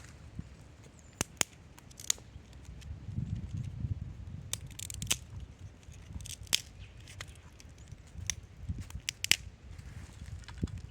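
Dry twigs snapping and crunching as they are broken and handled for a campfire: a dozen or so sharp cracks over low rustling.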